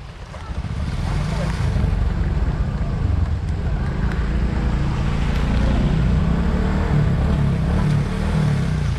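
A motor engine running loud and low, coming up about half a second in and holding steady.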